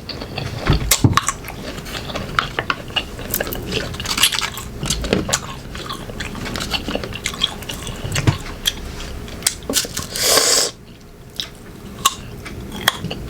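Close-up crunchy biting and chewing of green mango, with scattered clicks of dishes and cutlery, and one loud, longer crunch or clatter about ten seconds in.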